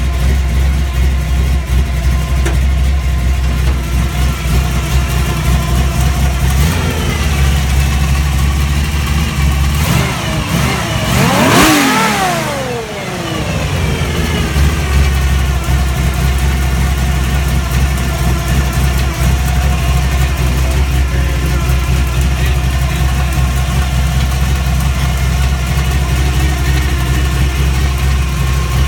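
383 cubic-inch V8 idling steadily, revved once about ten seconds in, the pitch rising for a couple of seconds and then falling back to idle.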